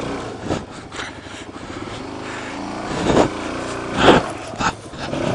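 Suzuki DR-Z400 single-cylinder four-stroke dirt bike engine revving up and down in short bursts while picking through rocks. Several sharp knocks come through, the loudest about three and four seconds in.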